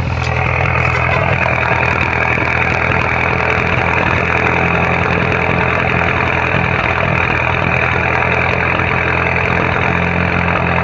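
Car engine idling with a steady rumble it is not supposed to make, showing up as the engine warms up; the owner thinks it is misfiring, with some cylinders burnt out.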